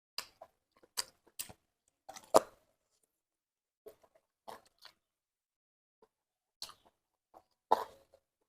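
Eating sounds close to the microphone: scattered wet clicks and smacks of chewing, with two louder ones about two and a half seconds in and near the end.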